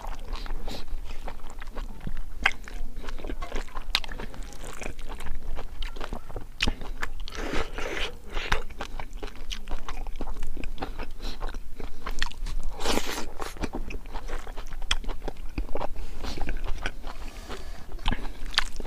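Close-miked chewing and crunching of crispy fried pork with rice: a run of small crisp crackles, with a few louder crunches about seven to eight seconds in and again about thirteen seconds in.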